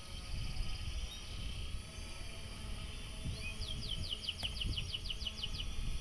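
A bird calls a fast trill of about a dozen short, downward-sliding notes in the second half, over a steady low rumble and a faint high hiss.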